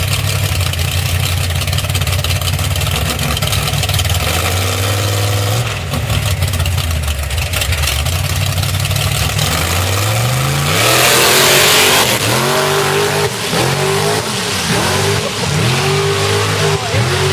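Mud truck engine running steadily, then revving hard: a loud rush of noise about eleven seconds in, followed by revs rising and falling roughly once a second.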